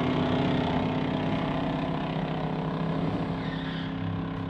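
Drag car V8 engine running at a steady pitch, slowly growing quieter.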